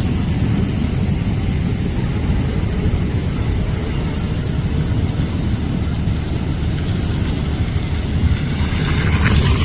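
Steady low rumble of road traffic on a rain-flooded main road, with a brighter hiss rising near the end.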